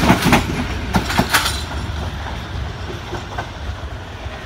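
A passenger train's coaches passing, wheels clacking over the rail joints; the clacks stop about a second and a half in, and the rumble fades as the train draws away.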